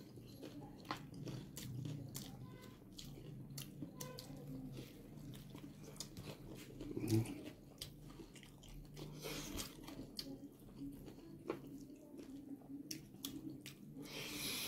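Close-miked person chewing and biting food, with many small wet mouth clicks and smacks. A brief louder thud comes about seven seconds in.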